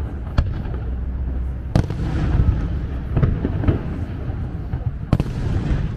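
A fireworks display: shells bursting with sharp cracks, three of them loud and a few smaller, over a continuous low rumble of booms.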